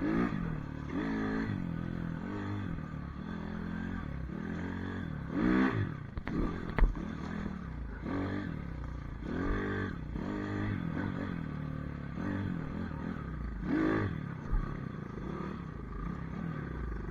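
Small pit bike engine being ridden off-road, revving up and falling back over and over as the throttle is worked, with a sharp knock about seven seconds in.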